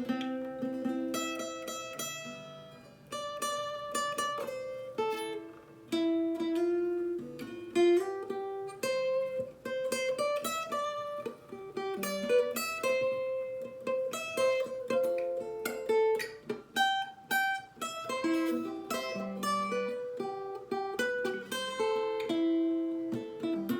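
Guitar playing a C, G, A minor, F chord progression, the F climbing up to G, as a steady run of picked notes that ring on.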